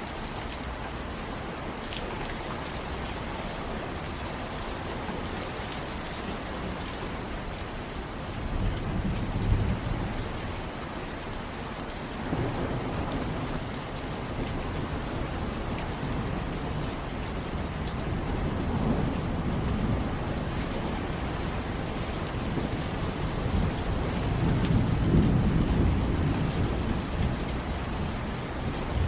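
Steady rain falling, with low rumbles of thunder swelling and fading several times, the longest in the second half.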